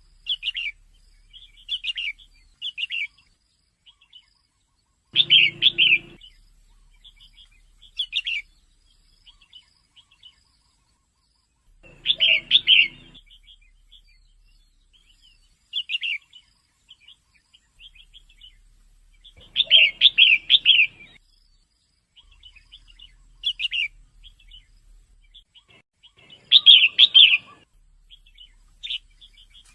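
Female red-whiskered bulbul calling: short, bright chirps in small clusters every second or two, with a louder run of chirps about every seven seconds.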